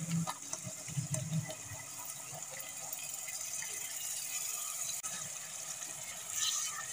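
Cumin-and-chilli masala sizzling steadily in hot oil in a pot as yogurt is spooned in, with a few light knocks of the spoon in the first couple of seconds.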